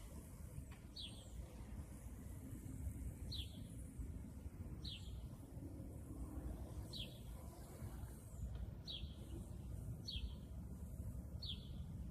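A bird calling: a short, high, falling chirp repeated about every one to two seconds, over a low steady rumble.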